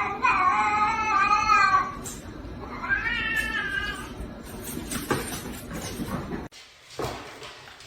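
A cat meowing: two long, wavering, drawn-out calls, the first about two seconds long and the second shorter, followed by softer shuffling noises.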